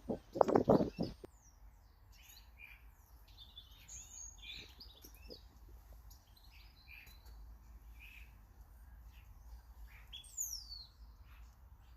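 Small garden birds chirping and calling in many short notes, with one clear call sliding down in pitch near the end. A quick burst of loud thumps comes about half a second in.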